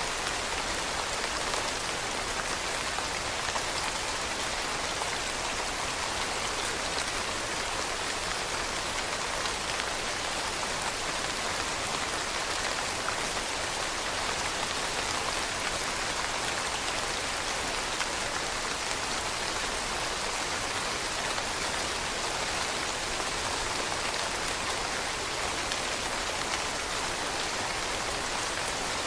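Steady rain falling on leaves: an even, unbroken hiss of many small drops pattering, brightest in the higher range.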